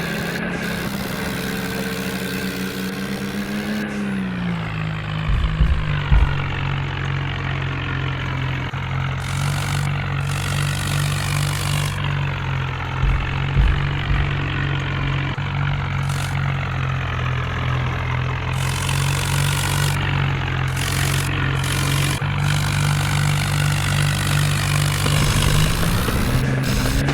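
A steady engine-like hum that drops in pitch about four seconds in and rises again near the end, with a few short low thumps.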